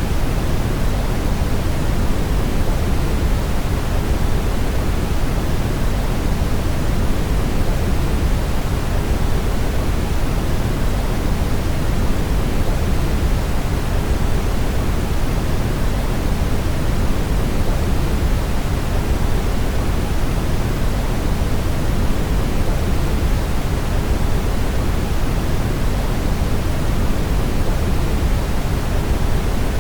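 Steady brown noise: an even, unchanging rumbling hiss, strongest in the deep low end and fading toward the high end.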